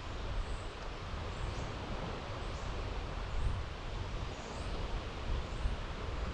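Outdoor marsh ambience with a low wind rumble on the microphone, and a small bird giving short, very high, thin notes about once a second.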